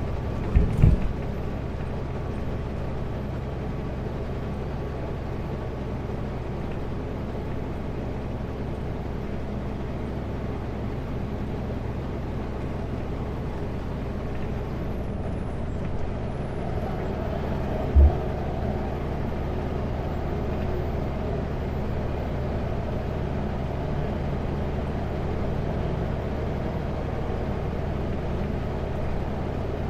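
Kenworth W900L semi truck's diesel engine and road noise, steady while driving on the highway, with a couple of low thumps about a second in and a sharper single thump about eighteen seconds in.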